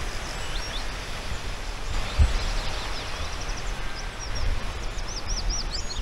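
Small birds singing, a string of short high chirps that comes thicker near the end, over a steady outdoor hiss with a low wind rumble on the microphone.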